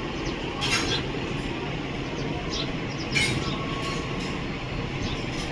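Steady low urban rumble, with short high bird chirps now and then and two louder chirping bursts.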